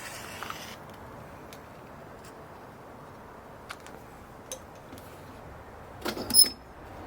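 A wood bonfire crackling over a steady low hiss, with sparse sharp pops. Near the end comes a louder burst of sharp hits, the loudest a brief ringing clink.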